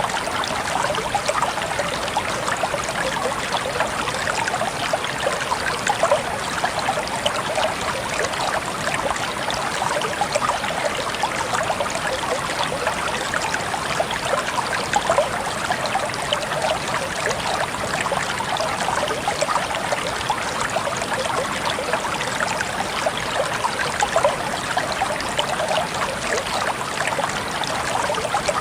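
Water trickling steadily, with a dense patter of many small splashes and drips.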